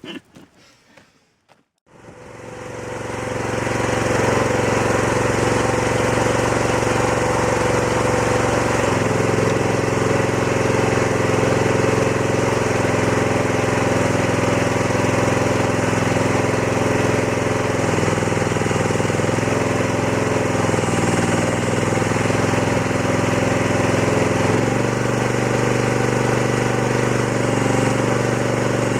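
Chinese excavator's engine coming up to a steady run about two seconds in, with its tone shifting a couple of times, about a third of the way through and again near the end.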